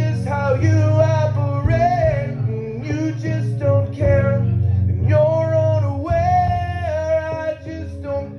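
Live music: a looped electric bass line holding steady low notes under a high vocal melody sung without clear words, in phrases with vibrato.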